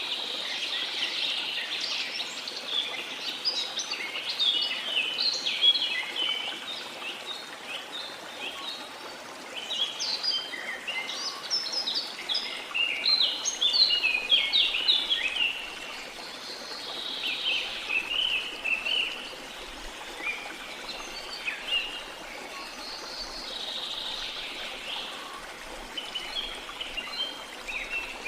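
Songbirds singing and calling in bouts of rapid chirps and trills, over a steady rush of falling water from a waterfall in a tropical rainforest.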